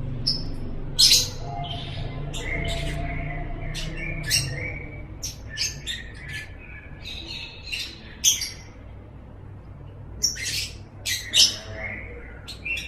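Lovebird calling: short, shrill chirps and squawks, many in quick irregular succession, over a faint steady low hum.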